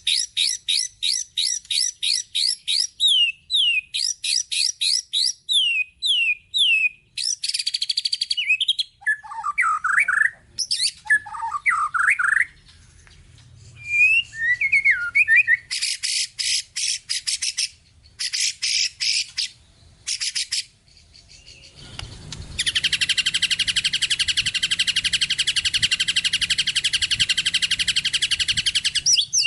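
White-rumped shama (murai batu) singing a long, varied song full of mimicked phrases: runs of quick falling whistles, rapid chattering trills and lower warbles, ending in a long unbroken rapid trill from about three quarters of the way in.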